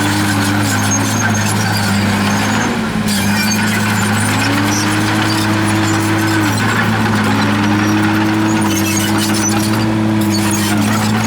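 Komatsu D51PX bulldozer working: a steady low diesel hum under a higher tone that rises, holds and falls away several times.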